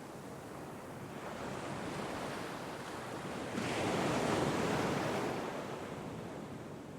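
Sea wave breaking and washing up a shore: the rush builds over the first few seconds, surges suddenly about halfway through, then recedes.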